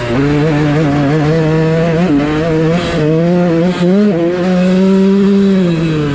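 Dirt bike engine running under throttle, its pitch rising and falling in short blips, then holding steadier for about a second before it drops away.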